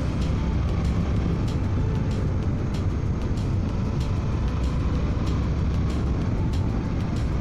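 Steady wind rush on a microphone inside a motorcycle helmet, over the 2024 Suzuki V-Strom 800DE's parallel-twin engine running at a steady cruise.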